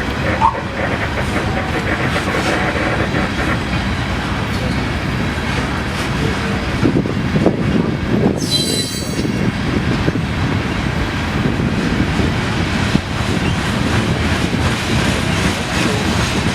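Train rolling past at close range, a steady rumble and clatter of wheels on rail, with a brief high-pitched wheel squeal about eight and a half seconds in.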